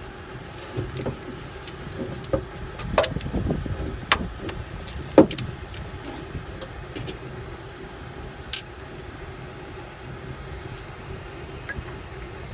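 Wrenches and sockets working on air-line fittings and bolts: scattered metal clinks and knocks, the sharpest about five seconds in, with a short high ping later, over a steady low hum.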